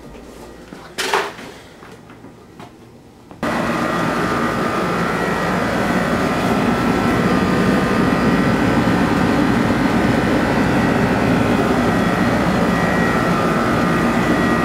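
Clothes dryer starting abruptly a few seconds in and running steadily, its drum and blower making a loud even whir with a faint steady hum. A single sharp knock comes about a second in.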